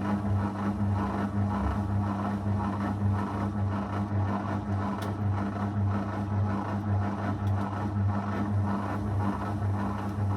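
Zanussi FL984CN washing machine running partway through its 35° wash programme: a steady hum with an uneven churning noise over it that swells and eases.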